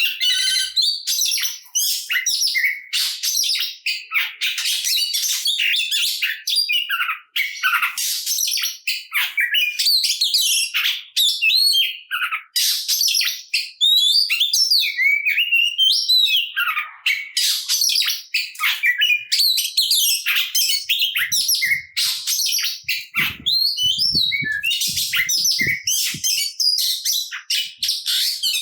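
Oriental magpie-robin singing continuously in a fast, varied song of whistles, chirps and rapid trills, packed with mimicked phrases. This is the full-repertoire song of a bird in top singing form.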